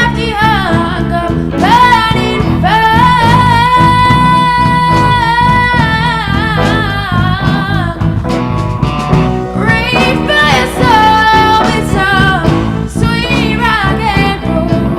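Live band playing a slow blues, with a lead line of bent, wavering held notes (one held for several seconds) over bass and drums.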